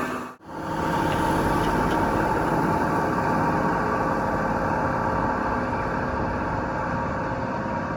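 Truck engine idling steadily, with a steady low hum. The sound cuts out briefly about half a second in, then resumes.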